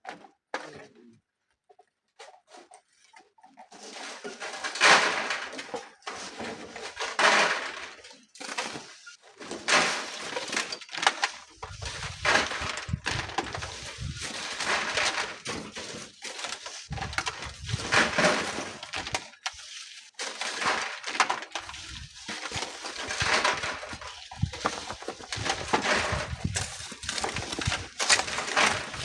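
Repeated rushing hiss of sand being shovelled and thrown in manual sand mining, in surges a few seconds apart. From a little over ten seconds in, a low rumble of strong wind buffeting the microphone joins it.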